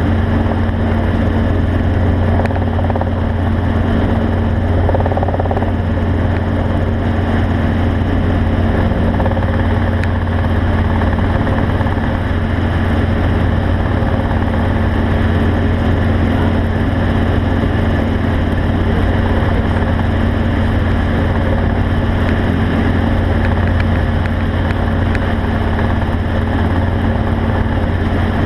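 A steady low engine drone that holds the same pitch and level throughout.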